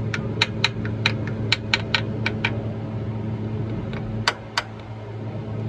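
Sharp metallic clicks and clinks, about four a second for the first two and a half seconds, then two more a little after four seconds, over a steady low hum.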